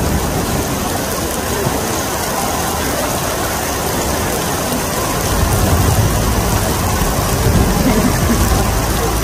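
City street traffic noise: a steady hiss of passing vehicles, with a low rumble that grows louder about five seconds in.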